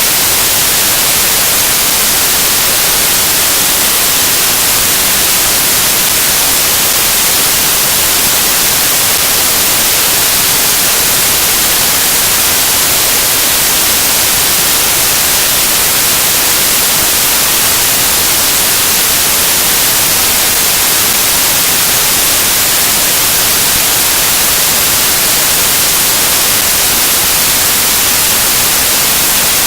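Loud, steady static hiss like white noise, unchanging throughout and strongest in the high frequencies, with no other sound over it.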